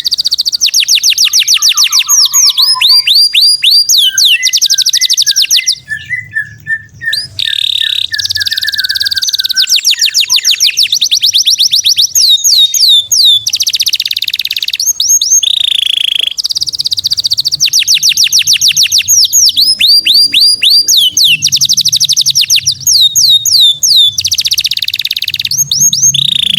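Songbird song for bird tutoring: fast, loud trills of high sweeping notes, the same phrase sequence repeating about every eight seconds.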